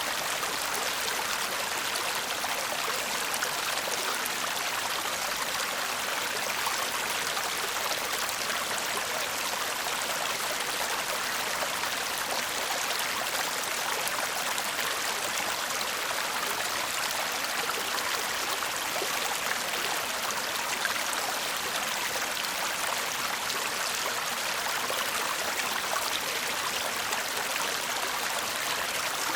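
A shallow stream (babbling brook) murmuring and trickling steadily over stones, an even splashing hiss without pauses.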